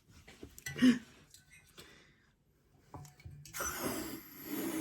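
Handling clicks and a short loud knock, then, about three and a half seconds in, a helium tank valve opens and hisses steadily as it fills a balloon.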